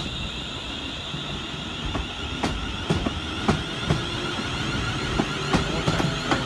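Passenger train passing close by: a steady rumble and a high whine, with wheels knocking over rail joints about twice a second from about two seconds in.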